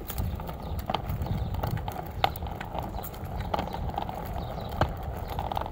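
Irregular footsteps and small clicks from someone walking beside a child's bicycle, over a steady low rumble.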